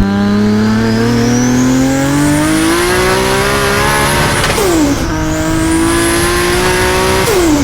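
Turbocharged car engine accelerating hard through the gears, its pitch and a high turbo whistle rising together. Both drop sharply at an upshift about four and a half seconds in, then climb again until a second shift near the end.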